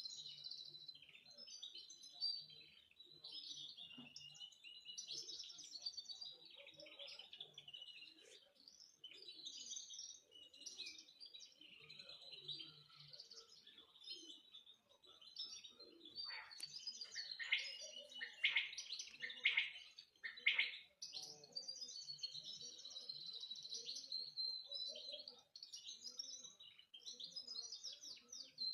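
Domestic canary singing a long, unbroken song of rapid trills and warbles, with a run of louder downward-sweeping notes a little past the middle.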